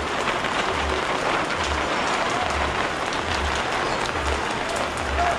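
Steady rain falling, a dense even hiss, with soft low thumps about once a second underneath.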